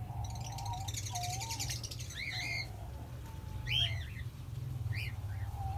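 Small cage birds chirping: a buzzy high trill in the first two seconds, then three short chirps spaced a second or more apart, over a steady low hum.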